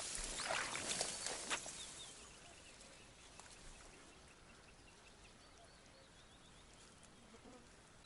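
A short stretch of rustling and splashing in the first second or so, then quiet open-air ambience with faint small-bird chirps.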